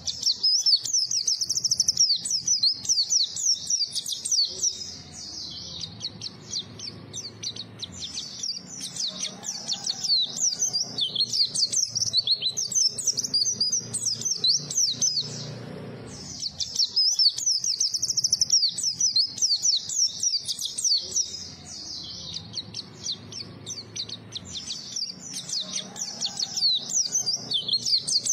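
White-eye (pleci) singing a rapid, high twittering song in long continuous runs, with softer stretches in between.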